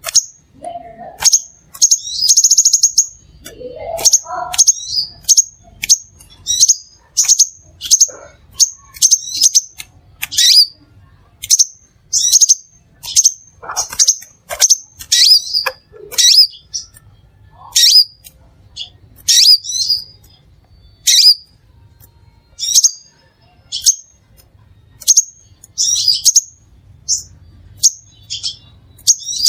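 Crimson sunbird calling: loud, short, sharp high chips repeated about once or twice a second, with a brief buzzy rattle about two seconds in.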